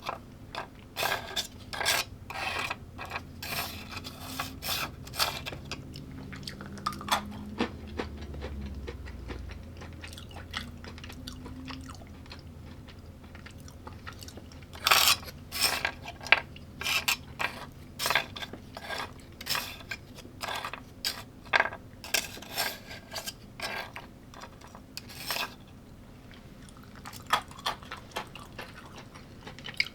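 A person eating: cutlery clicks and scrapes against a dish in an irregular run of short strokes, with chewing in between. There are quieter stretches about ten seconds in and again near the end.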